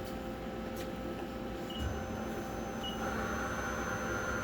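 Mori Seiki MV40M vertical machining center humming steadily while being homed. About two seconds in, a low thump and a thin high whine begin as the Z axis drives toward its home position, with two short beeps from the control.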